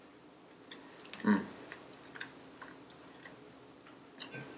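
Close-up chewing of food with faint small mouth clicks, and a short voiced mouth sound about a second in. Near the end a few sharp clicks of a metal fork against a ceramic plate.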